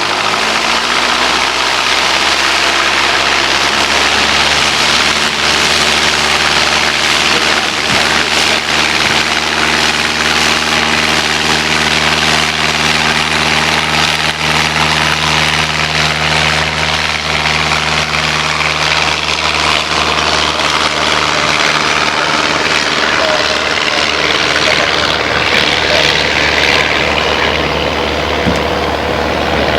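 Piper Warrior II's four-cylinder Lycoming engine and propeller running with a steady drone. The engine pitch shifts about four seconds in, then holds steady.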